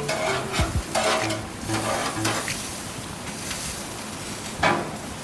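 Food sizzling as it cooks, a steady hiss, with a knock just under a second in and a short clatter near the end.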